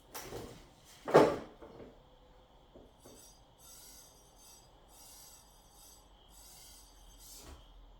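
Handling noises while unpacking: a brief rub, then a single heavy thump about a second in, followed by a few faint scrapes and clicks.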